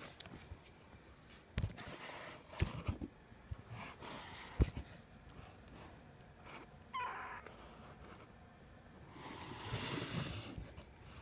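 A kitten mews once, a short call rising and falling in pitch, about seven seconds in. Scattered light taps and knocks come before it, and soft rustling follows near the end.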